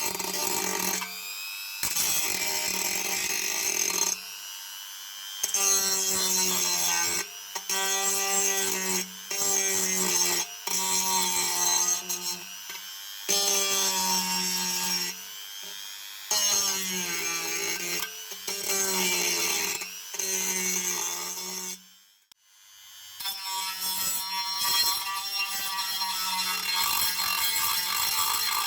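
A small electric power tool running, stopping and starting every second or two, its tone bending as it is worked against the part. About three quarters of the way through it winds down and spins back up.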